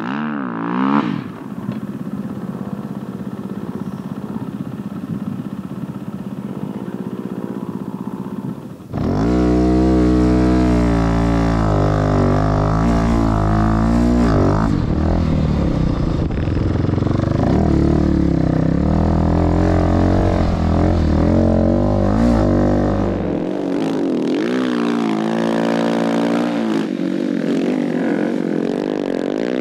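Rally motorcycle engine revving up and down while riding in sand, its pitch rising and falling with the throttle. About nine seconds in it turns suddenly much louder and deeper, heard close from on the bike, then eases back a little past twenty seconds in.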